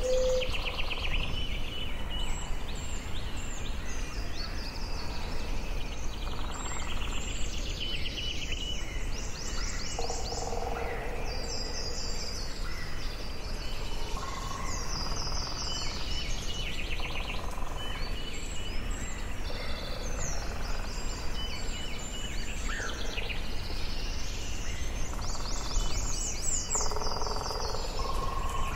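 Forest ambience: several songbirds singing over and over in quick trilled phrases, with a steady low rumble of background noise beneath. Lower, shorter calls come in here and there.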